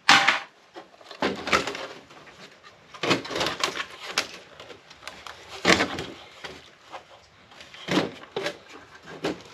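Plastic case of an APC battery backup unit being cut open by hand, heard as a series of about six separate cracking, scraping strokes at uneven spacing.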